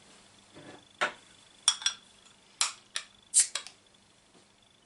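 Metal bottle opener on the crown cap of a glass beer bottle: a string of sharp clicks and knocks as it is fitted and the cap is prised off, the loudest click about three and a half seconds in.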